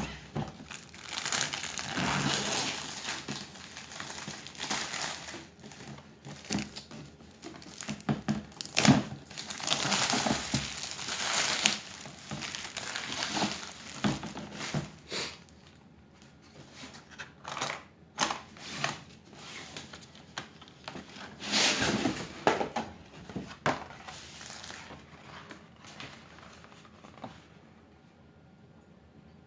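Packaging being handled and unwrapped during an unboxing: irregular crinkling and rustling with a few sharp clicks, busiest in the first half and dying away near the end.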